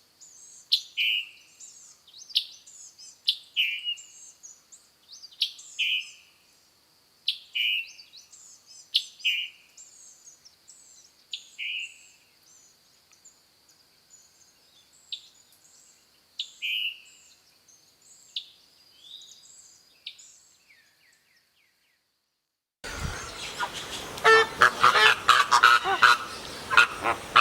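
A songbird repeating short, downward-slurred calls about once a second, with faint higher chirps and a thin steady high tone behind them. After a brief silence near the end, a louder, dense stretch of calling starts abruptly.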